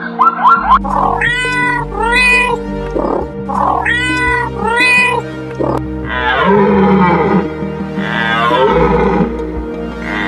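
Animal calls over steady background music: four short rising-and-falling calls in two matching pairs, then two longer calls that fall in pitch.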